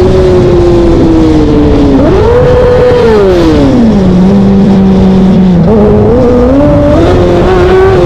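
Motorcycle engine running hard at speed, its pitch rising and falling with the throttle and gear changes. The pitch sinks slowly, jumps up about two seconds in, drops away and holds low for a moment, then climbs steadily toward the end.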